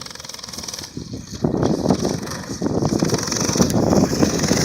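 Baja mini bike's small engine running as it is ridden, getting louder about a second and a half in.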